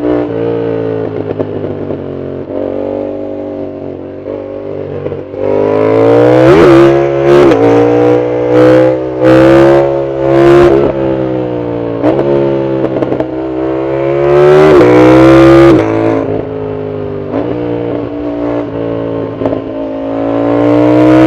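Yamaha MT-07's CP2 parallel-twin engine, through a loud full exhaust, pulling hard in bursts while the bike is ridden. The revs climb and drop again and again, with the loudest pulls about a third of the way in, around two-thirds through, and near the end.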